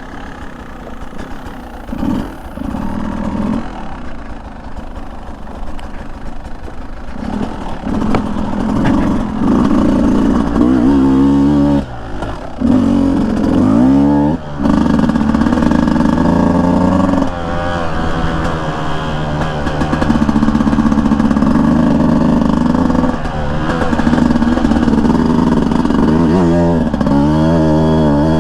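Beta 200 two-stroke dirt bike engine under way, revving up and down with the throttle. It runs softer for the first few seconds, then louder, with the revs cutting off sharply and climbing again twice around the middle.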